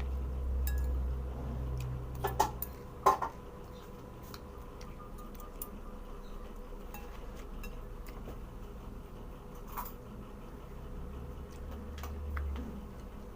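Scattered clinks and taps of tableware, the sharpest two about two to three seconds in, over a steady low hum.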